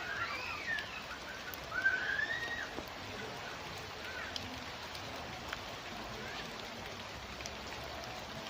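Light drizzle falling steadily as an even hiss, with the odd sharp drop tick. In the first few seconds a bird calls with short swooping chirps.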